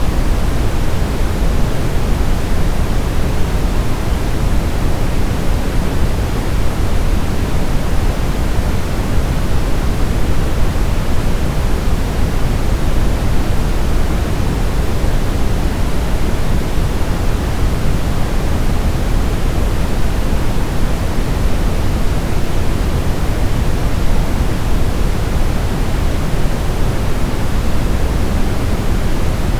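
Continuous baby sleep-aid white noise: an even, unbroken hiss, heavier in the low end than the high, with no changes.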